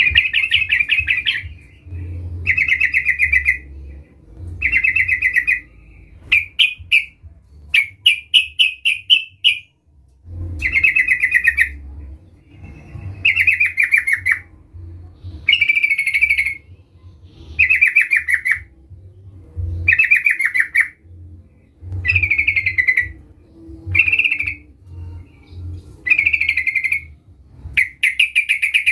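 Yellow-vented bulbul singing: bubbly, rapid phrases about a second long repeated every two seconds or so, with a run of shorter quick chirps around six to nine seconds in.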